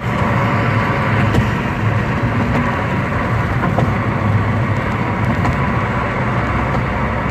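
Car driving, a steady rumble of engine and road noise.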